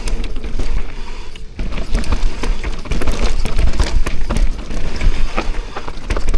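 Mountain bike descending a rough trail: a heavy steady rumble of wind on the microphone, with frequent short clattering knocks as the bike rattles over the ground.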